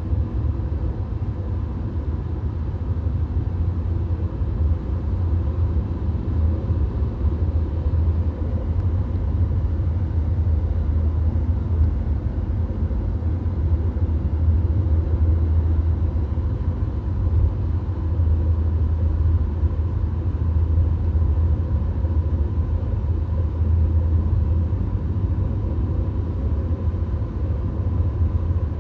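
VW Golf driving at highway speed: a steady, deep road and tyre rumble with a faint thin whine above it, unchanging throughout.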